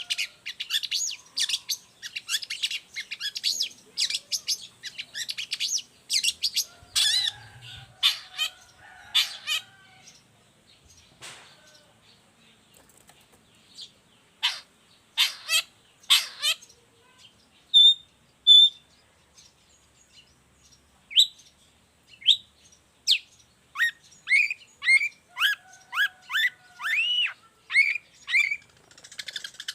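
Long-tailed shrike (cendet) singing a busy song of rapid, sharp chirps. It goes quiet for a few seconds partway through, with only a few isolated loud notes, then starts again with a string of quick, curving notes.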